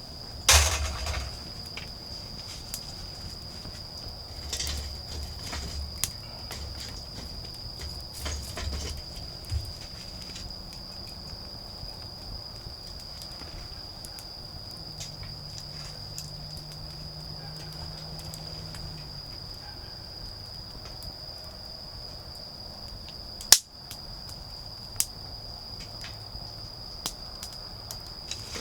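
Autumn crickets trilling in one steady, unbroken high-pitched tone, with scattered crackles from a wood campfire, a few low thumps in the first ten seconds, and one sharp loud snap about two-thirds of the way through.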